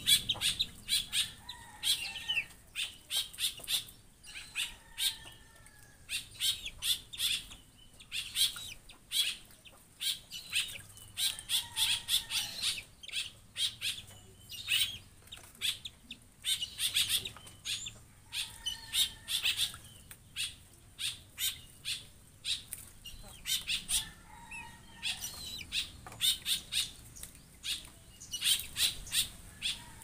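Birds calling in rapid runs of short, sharp, high calls every second or two, with a few fainter drawn-out calls in between.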